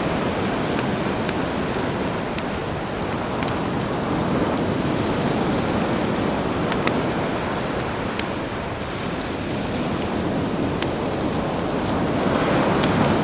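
Campfire crackling with scattered sharp pops over a steady wash of sea waves, the surf swelling a little near the end.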